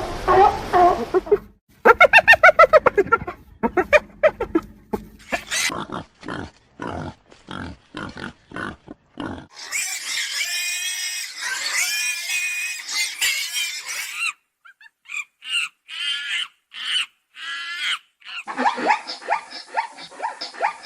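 Pigs grunting and squealing: first a quick run of short grunts, then several seconds of continuous high-pitched squealing, then more scattered short calls.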